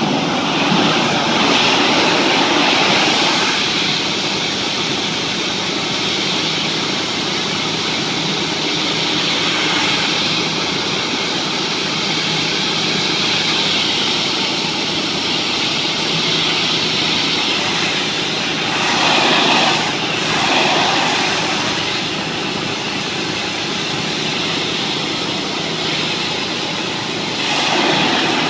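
Pressure-washing equipment running steadily while it sprays a hard surface to strip chewing gum. The hiss swells twice, around two-thirds of the way through and again near the end.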